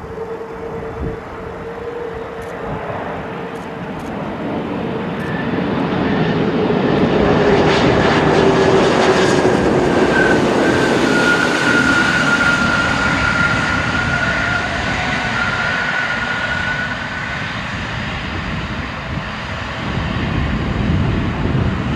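Jet airliner engines: a broad rushing roar that swells to its loudest about eight to twelve seconds in and then eases off. Whines ride on the roar and slowly fall in pitch.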